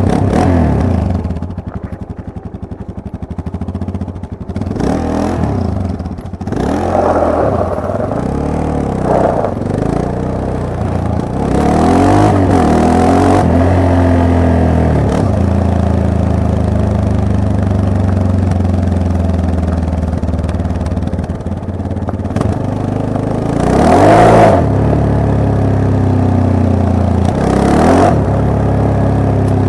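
Yamaha MT-03 motorcycle engine under way, the revs rising and falling again and again as the rider accelerates and shifts, with a steadier spell of even running in the middle and sharp rev swells near the end.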